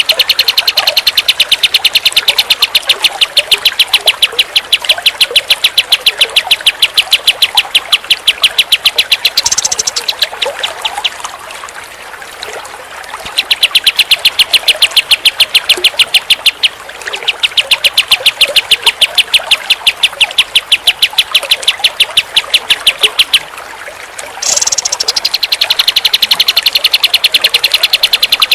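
Kapas tembak songbird singing long runs of rapid, evenly repeated high notes, broken by a pause about a third of the way in and a shorter one near the end.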